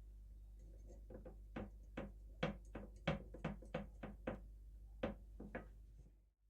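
A quick, uneven run of sharp clicks or knocks, about three a second, starting about a second in and stopping shortly before the sound cuts out abruptly.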